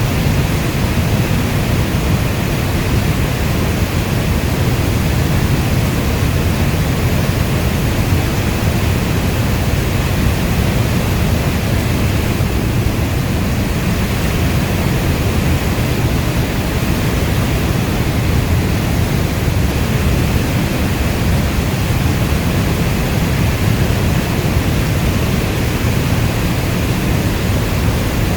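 Heavy rain ambience: a dense, steady rush weighted toward a low rumble, with no separate drops, thunder or other events standing out.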